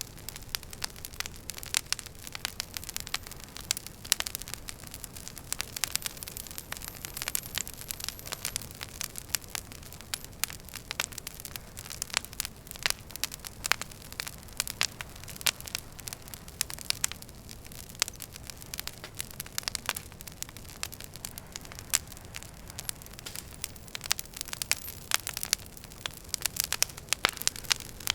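Wood fire burning in a fireplace, with irregular sharp crackles and pops, several a second, over a steady low rumble.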